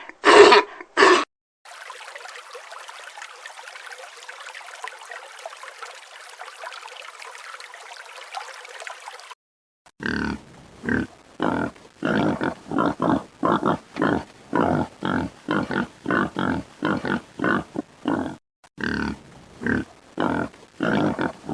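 An animal grunting over and over in a quick, even rhythm, about two grunts a second, through the second half. Before that there is a faint, even hiss lasting several seconds.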